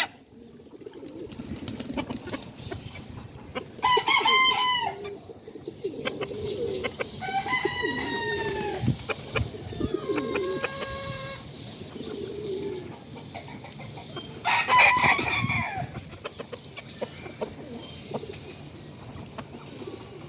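Chickens calling while feeding on scattered corn: several separate loud calls a few seconds apart, some with falling pitch, over a low steady background.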